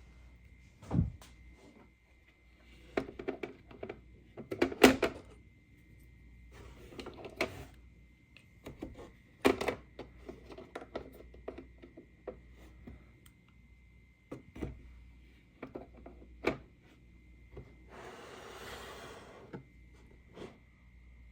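Plastic toy playset pieces being handled and set down: scattered clicks and knocks, with a brief rustle near the end and a faint steady high tone underneath.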